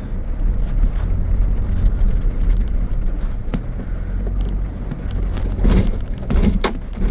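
Four-wheel-drive vehicle driving slowly over rough riverbed ground: a steady low engine and tyre rumble with scattered knocks and clicks.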